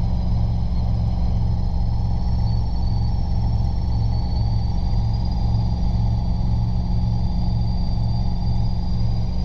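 Robinson R22 helicopter in flight, heard from inside the cabin: a steady, loud low drone of engine and rotor with a slow regular throb, and a thin high whine above it.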